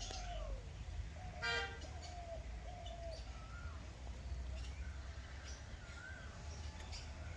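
Birds calling in short whistled, gliding notes over a low steady rumble, with one brief buzzy honk-like note about one and a half seconds in.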